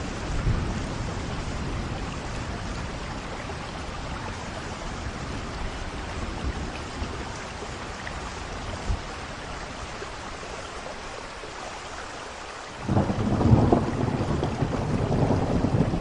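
Steady rain falling with distant thunder rumbling; near the end a louder roll of thunder breaks in suddenly.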